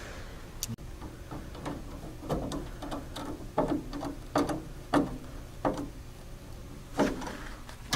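Light clicks and taps of a bolt and hand tool against metal, irregularly spaced about every half second to a second, as a bolt is fitted to fasten the door glass bracket to the window regulator.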